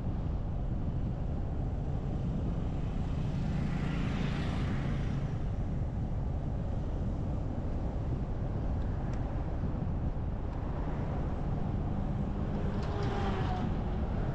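Steady low rumble of a car driving: road and wind noise. Two brief swells of hiss rise and fade, about four seconds in and again near the end.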